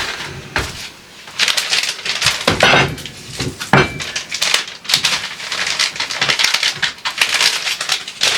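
Irregular rustling, crinkling and light clattering of kitchen items and packaging being handled, in quick overlapping bursts with no steady rhythm.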